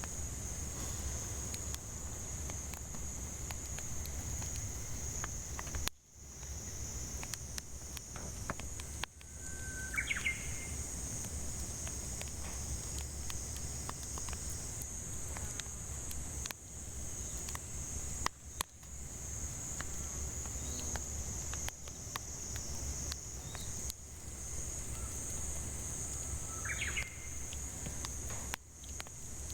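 Cicadas droning steadily at a high pitch over a crackling wood fire, with scattered small pops from the burning firewood. A bird gives a short call twice, about ten seconds in and again near the end.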